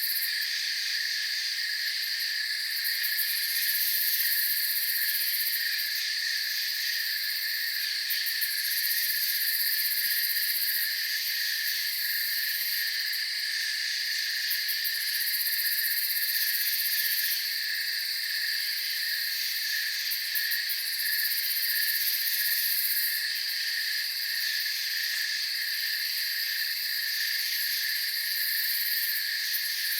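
Night insect chorus of crickets chirping steadily in several pitches, with a shrill high layer that swells and fades every few seconds.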